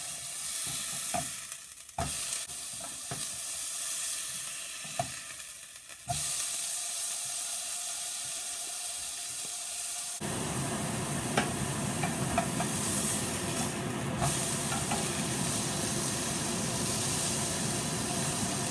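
Beef burger patty sizzling in a nonstick pan, with a few sharp taps of a wooden spatula against the pan. Partway through, the sizzle gets louder and fuller.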